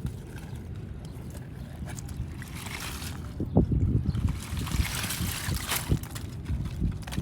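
Water splashing and sloshing, with irregular low thumps starting about halfway through.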